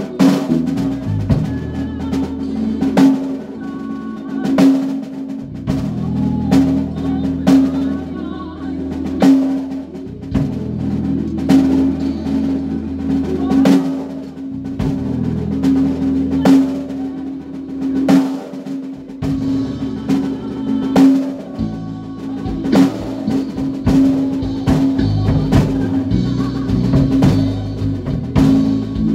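A band rehearsing: drum kit with snare and bass drum hits in a steady beat under sustained low bass notes that change every few seconds, with a held pitched part above.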